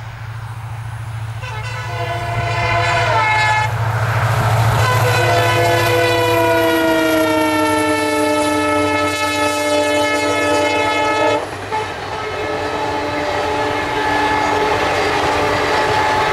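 Indian Railways locomotive horn sounding for about ten seconds as the train approaches and passes, its pitch stepping down and then sliding lower as it goes by. The horn cuts off and the coaches rumble past.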